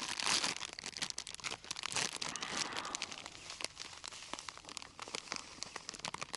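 Crinkling, crunching rustle of fishing groundbait and its plastic packet being handled and mixed by hand, a dense run of small crackles that is loudest in the first couple of seconds and then fades.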